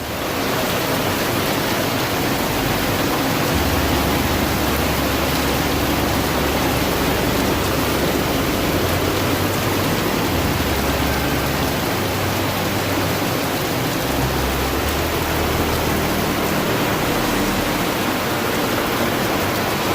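Steady hiss of heavy rain falling in a hurricane rain band, with gusts of wind rumbling on the microphone now and then.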